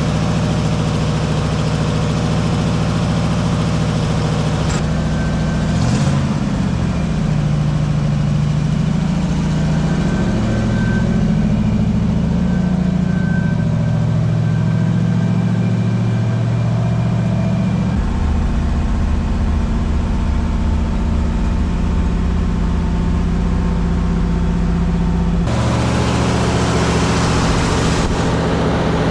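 1955 GMC 100 pickup's V8 engine running, its note rising and falling for a stretch as the truck is driven, with sudden changes in the sound twice near the end.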